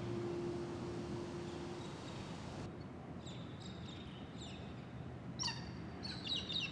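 A bird calling: short high chirps with quick glides in pitch, in small groups from about three seconds in, the last group near the end, over a faint steady hiss. Before the chirps, a last held note of music fades out.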